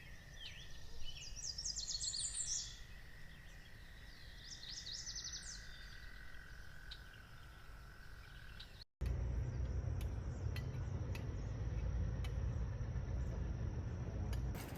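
Outdoor ambience of birds chirping in short high trills over a steady insect-like drone. A cut about nine seconds in switches to a louder low noise with a thin high steady whine and scattered clicks.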